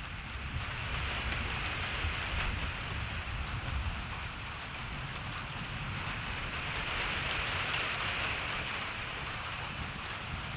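Steady rain falling, a dense hiss that swells slightly twice, with a low rumble underneath.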